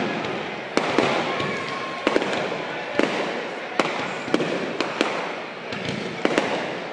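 Aerial fireworks shells bursting overhead: an irregular string of sharp bangs, roughly one or two a second, over a continuous wash of noise.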